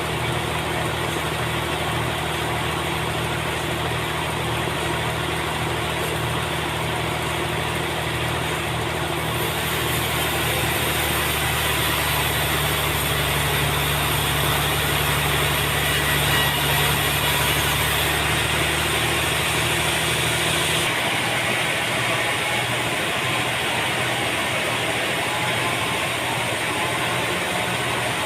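Sawmill machinery running: a steady engine note under a dense mechanical hiss. The hiss grows brighter for several seconds in the middle, and the low engine hum drops away about three quarters of the way through while the hiss goes on.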